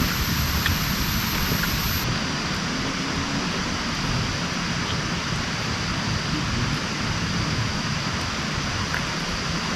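Steady heavy rain, a dense even hiss with a low rumble beneath and a few louder single drops now and then.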